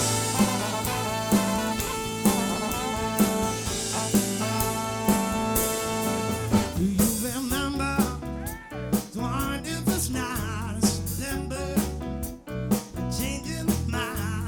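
Live soul band playing with a drum kit: held chords over a steady beat, changing to a busier groove with wavering melodic lines about seven seconds in.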